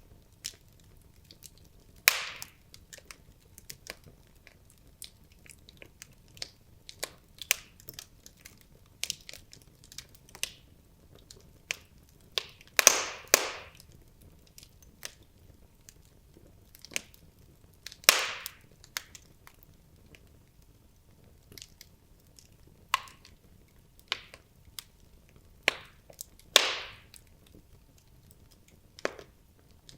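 Wood logs burning in a fireplace: irregular crackling, with scattered small pops and four louder pops, each trailing off briefly.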